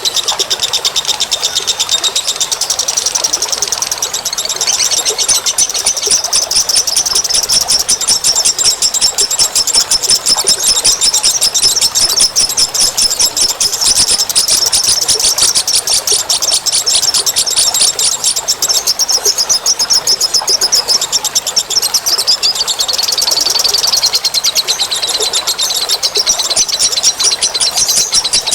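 Bird-lure recording of small birds giving a rapid, continuous high-pitched chattering trill, many ticks a second, that hardly varies.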